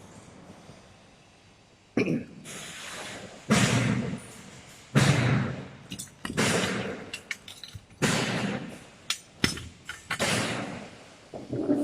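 Hand assembly of a robot end-of-arm tool's aluminium parts: a run of knocks, scrapes and handling noises, each fading quickly, with several sharp clicks in the second half.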